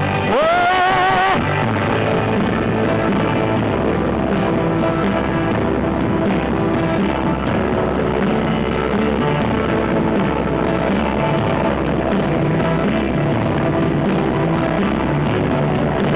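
Rock band playing an instrumental passage between sung lines. In the first second a single note slides up and is held with a waver, then the band carries on steadily.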